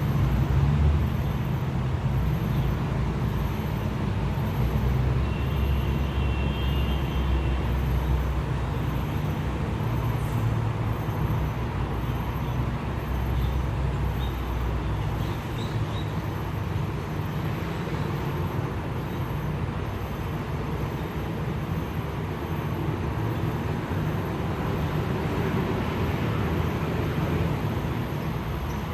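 Road traffic noise: vehicle engines and tyres passing in a steady stream, heavier in the low end during the first half.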